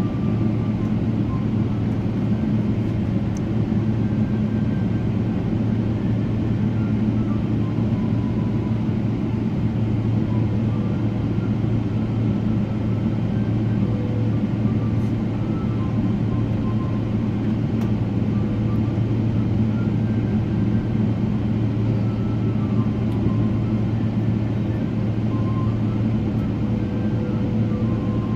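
Steady cabin noise of a Boeing 777-300ER airliner in flight: an even, low rumble of its engines and airflow, unchanging throughout.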